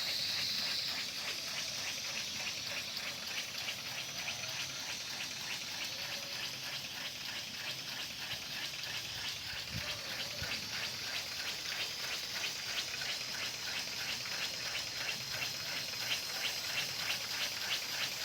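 Homemade radial steam engine running: a steady hiss of steam with a rapid, even chuffing of exhaust puffs that grows a little louder toward the end.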